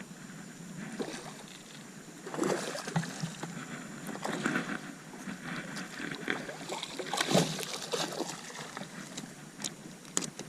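Water splashing and sloshing around a small jon boat, with scattered knocks and clicks, while a hooked redfish is fought and brought in on fly tackle.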